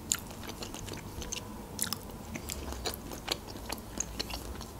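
Close-miked chewing: a person eating with closed lips, with irregular small mouth clicks.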